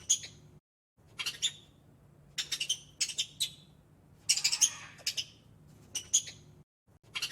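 Small bird chirping in short, quick groups of high notes over a faint low hum.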